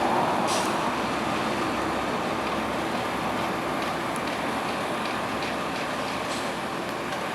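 Steady rumble of heavy diesel trucks and road traffic, slowly fading, with a few faint clicks.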